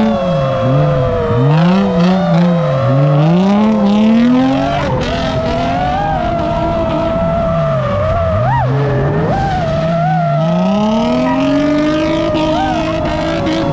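Drift cars' engines revving up and falling back again and again as the throttle is worked, with tyres squealing under a steady high whine.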